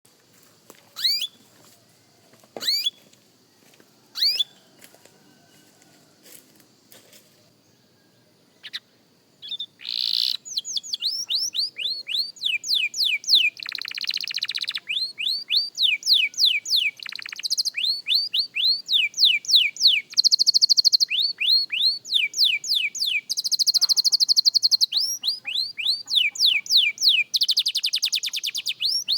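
Young canary singing: three single falling call notes about a second and a half apart, then from about ten seconds in a continuous song of quickly repeated falling notes broken by fast, buzzing trills.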